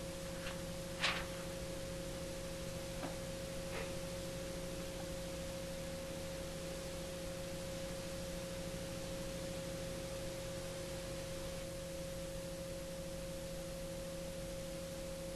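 Garrett TPE331 turboprop engines idling at ground idle during post-run cool-down: a faint, steady hum made of several fixed tones. A few faint clicks in the first few seconds.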